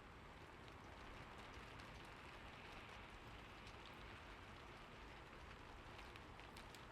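Faint, steady rain falling, an even hiss with scattered light drop ticks that grow more frequent near the end.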